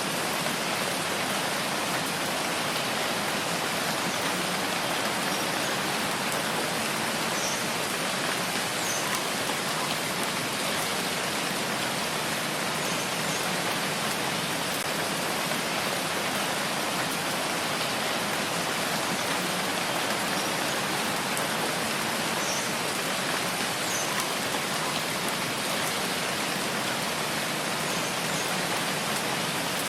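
Steady, even rainfall hiss with occasional faint individual drops.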